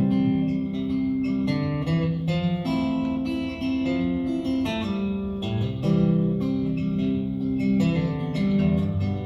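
Acoustic guitar strummed chords in an instrumental break between verses of a country song, the chords changing every second or so.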